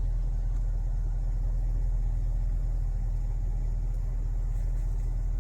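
Steady low rumble, even throughout, with no other distinct sound.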